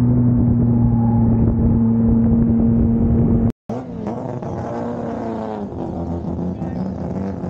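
Drift car's engine held at steady revs, with tyre noise, while sliding through a corner; it cuts off abruptly about three and a half seconds in. After a brief silence another drift car's engine is heard revving up and down while parked.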